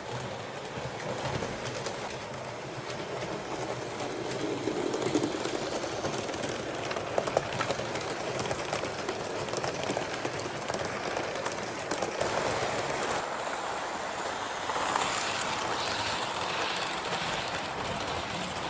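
A train running on track, a steady rolling noise with scattered wheel clicks over the rail.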